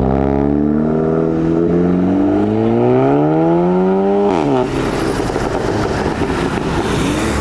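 Modified car's engine accelerating hard, its note rising steadily for about four seconds. The pitch then falls sharply, followed by rough, noisy exhaust sound that settles into a steady note near the end.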